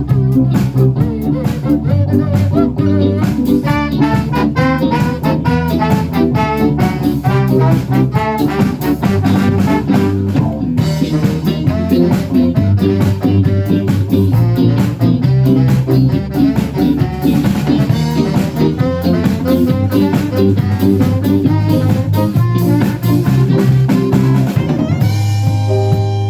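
Live band playing an upbeat instrumental number with a drum kit keeping a steady beat under bass and melody instruments. Near the end the beat thins out and held notes ring.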